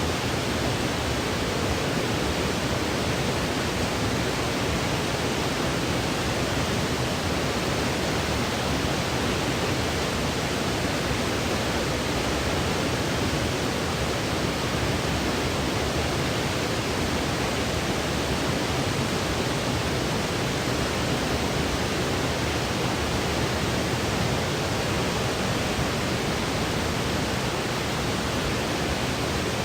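Steady, unchanging hiss of a synthetic white-noise sleep track, even across low and high pitches with no breaks or events.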